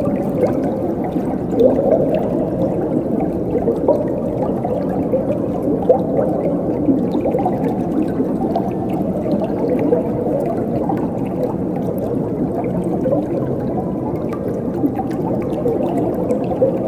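Flowing water gurgling and bubbling steadily, a low, full burble with many small splashes and blips.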